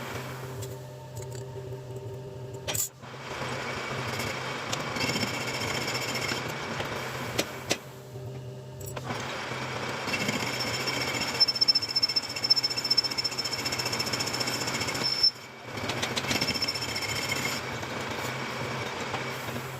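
Lathe turning a metal wheel hub: a steady motor hum under the rough, chattering noise of the cutting tool, with high-pitched ringing from the cut. It breaks off abruptly three times, briefly each time.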